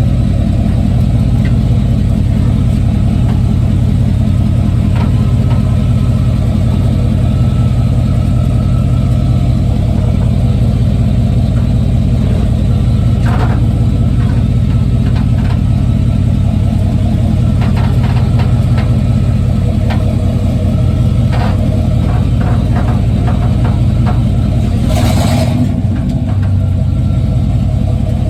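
A 1995 Chevy Silverado's 5.7-litre V8 and drivetrain running with a steady drone, heard from a microphone under the truck, with a few scattered sharp clicks or knocks and a brief rushing burst about 25 seconds in. The truck has a clunk from underneath in the drivetrain that the owner is trying to locate.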